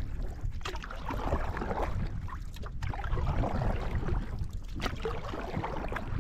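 Canoe paddling on open water: paddle strokes splashing and dripping roughly every two seconds over a steady low rumble of wind on the microphone.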